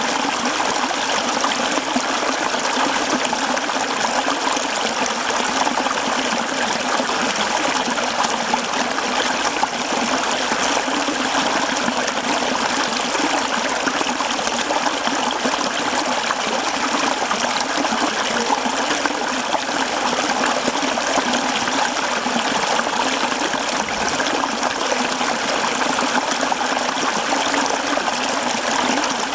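Mountain stream babbling and trickling over rocks, steady and unbroken.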